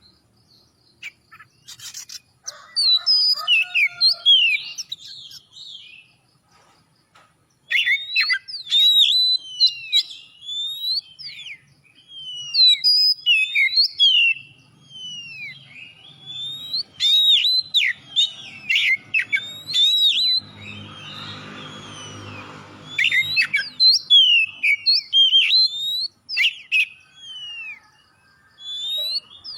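Oriental magpie-robin (kacer) singing vigorously: phrases of loud, sharp whistled notes that sweep up and down, with brief pauses between phrases. A low buzzing hum sounds under the song for about three seconds past the middle.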